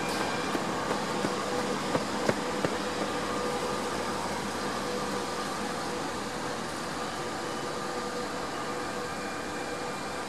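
Double-deck electric commuter trains passing: a steady rolling rumble with a steady hum, and several sharp wheel clicks in the first three seconds, fading slightly towards the end.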